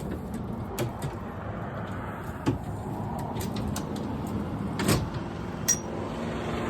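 Metal clicks and clunks of a truck-bed refrigerator slide being pushed back in and its rail locked, over a steady background hum. The loudest clunk comes about five seconds in.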